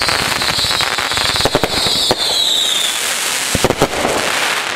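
Consumer multi-shot fireworks cake firing: rapid pops and crackling, with a high whistle that falls in pitch over the first three seconds.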